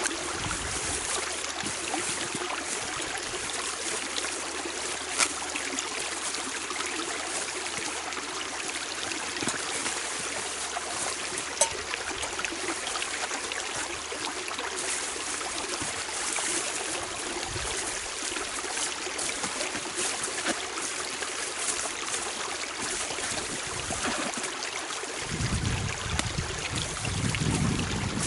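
Spring-fed forest brook running, a steady rush of water welling up from the ground. A few low thumps near the end.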